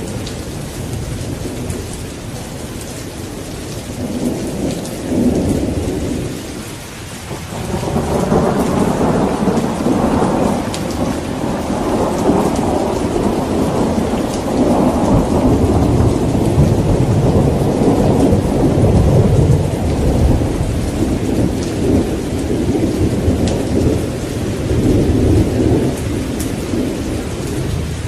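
Steady rain with rolling thunder. A short rumble comes about four seconds in, and after a brief lull a long rolling rumble starts at about eight seconds and runs on for most of the rest.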